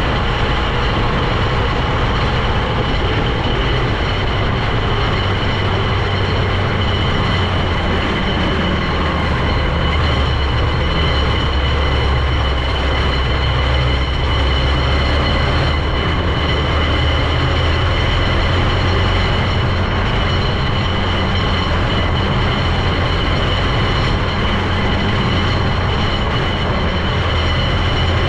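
Vehicle engine and running gear heard while driving along at a steady pace: a constant low drone with a steady high whine over it.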